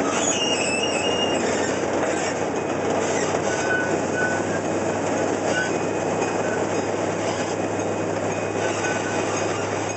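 Open-sided park train car rolling along its track: a steady rumble of the wheels on the rails, with a few brief, faint high squeals.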